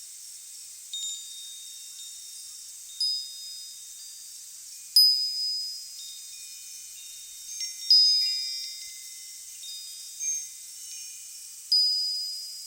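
Wind chimes ringing, struck at irregular intervals about seven times. Each strike rings with clear high tones that fade over a second or two, over a faint steady hiss; the loudest strikes come about five and eight seconds in.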